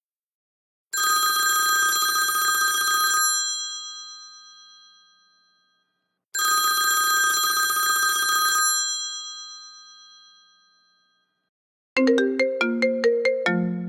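iPhone iOS 17 alert tone: a bright chime held for about two seconds and then fading out, played twice about five seconds apart. Near the end a different ringtone begins, a quick run of short notes.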